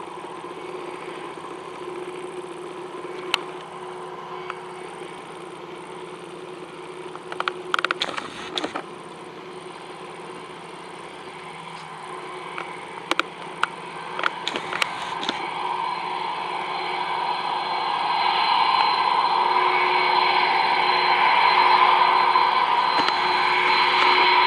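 Airbus A330-300 jet engines running with a steady whine, the sound growing louder from about two-thirds of the way in and staying loud to the end, with a few sharp clicks along the way.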